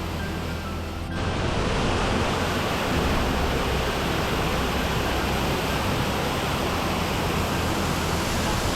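Waterfall with a strong, raging sound: a steady rush of falling water that steps up abruptly in loudness about a second in. Faint background music shows under the quieter first second.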